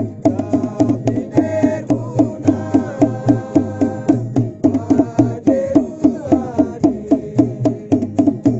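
Traditional Papuan dance music: drums beaten in a fast steady rhythm of about four to five strokes a second. A held melodic line sounds over the drumming through the middle and drops out about six seconds in.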